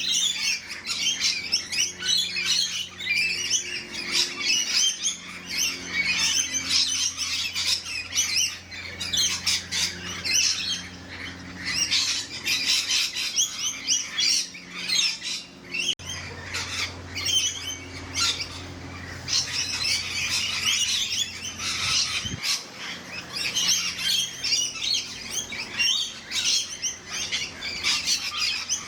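A large flock of rainbow lorikeets screeching and chattering, many birds calling over one another without a break.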